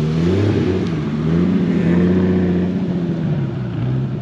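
A car engine running as the car drives by slowly. Its note climbs in the first half-second, holds steady, then eases off near the end.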